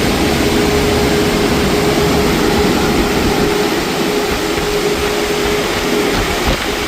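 Mark VII Aquajet XT touchless car wash machinery running, heard from inside the car: a loud, steady rush with a steady whine that fades out about six seconds in.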